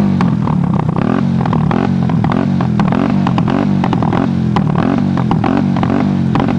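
Small 50 to 150 cc motorcycle engine held at the rev limiter, its pitch repeatedly climbing and dropping back about twice a second as the ignition cuts in.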